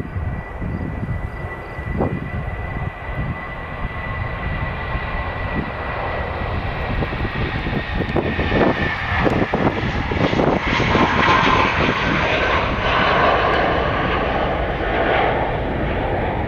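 Engines of a landing airliner passing the spotting point, a steady high whine over a rushing noise that grows louder from about halfway through, then drops away sharply at the end.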